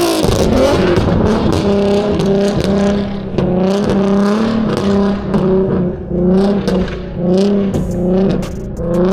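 Car engine revving hard, its pitch rising and dipping about once a second as the throttle is worked.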